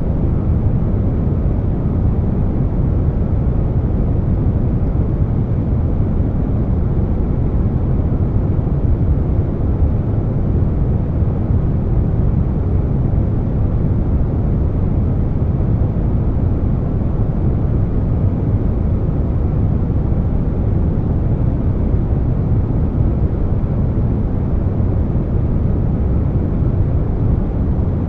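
Steady air conditioner noise blended with brown noise: an even, deep hiss weighted toward the bass, with no changes.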